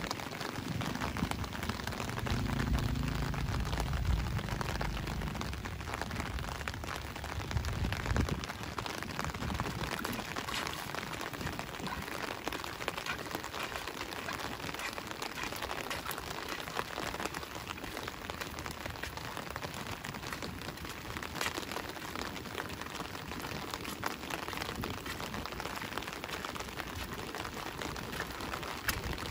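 Steady rain falling, with many close drops pattering, and a low rumble during the first eight seconds or so.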